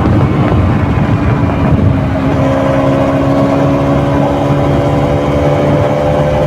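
KTM RC 200's single-cylinder engine running through its stock exhaust, picked up by a microphone mounted on the bike. The note is rough and uneven for about the first two seconds, then settles into a steady pitch.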